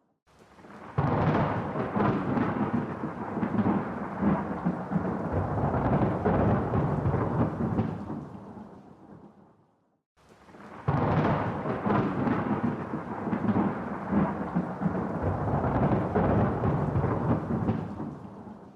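Two long rolls of thunder. Each breaks in suddenly and rumbles for about eight seconds before fading away, with near silence between them.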